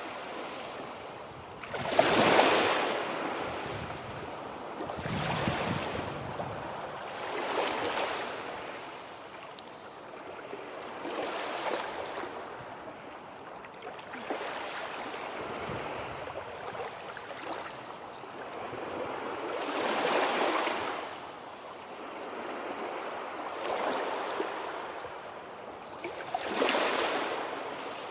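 Sea waves breaking and washing on the shore, swelling and fading in surges every few seconds, the strongest about two seconds in, around twenty seconds in and near the end.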